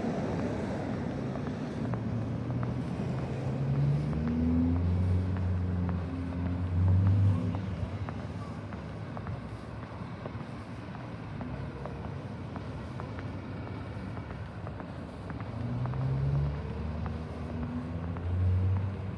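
Cars driving past on a snowy city street, their engines rising in pitch as they accelerate, one at about four seconds in and another near the end.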